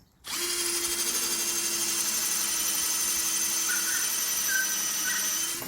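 Power drill running at a steady speed for about five seconds, starting just after the beginning and cutting off near the end.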